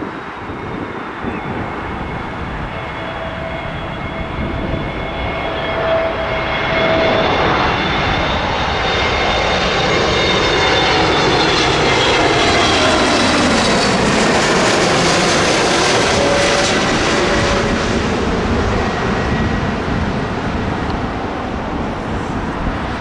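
Jet airliner's engines passing low overhead near the runway end. A rising whine and rush build to a peak over several seconds, then the tones drop in pitch as the aircraft moves away.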